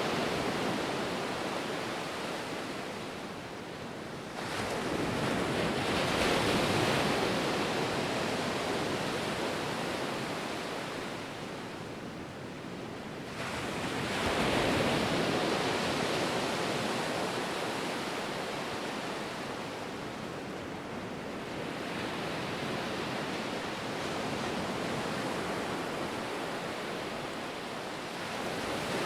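Ocean surf: waves breaking and washing in. Two big swells rush in, about four seconds in and again about fourteen seconds in, each easing off into a steadier wash.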